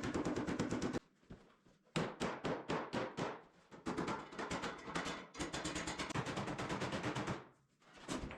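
Rapid hand hammering on an excavator's sheet-metal hood to straighten a dent. The blows come in four quick runs of about eight a second, with short pauses between runs.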